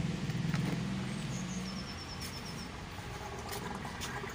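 A small bird gives a quick run of about eight short, high chirps in the middle, over steady outdoor background noise. A low hum fades out about two seconds in.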